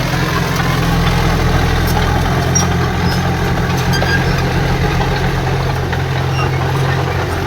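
Heavy earthmoving machine's diesel engine running steadily at a low, even speed.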